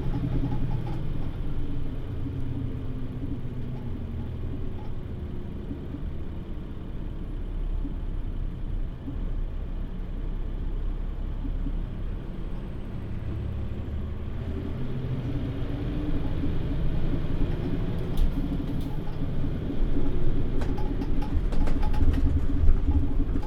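Interior running sound of a Mitsubishi Fuso Aero Star city bus (PJ-MP35JM) with its diesel engine running: the engine note falls away early on, then rises and grows louder from about two-thirds of the way in as the bus pulls away. A few sharp clicks come near the end.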